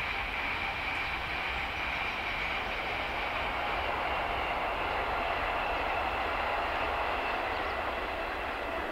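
A distant train running past on the East Coast Main Line: a steady rushing noise with a faint high whine that swells to a peak past the middle and eases off near the end.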